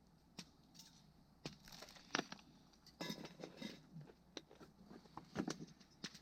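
Irregular crinkling, rustling and sharp clicks, as of packaging or utensils being handled, coming in short clusters.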